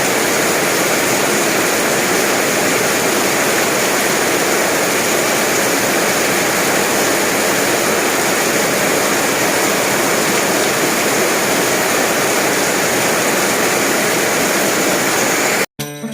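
Heavy rain pouring down in a dense, steady hiss. It cuts off abruptly near the end, and plucked-string music starts.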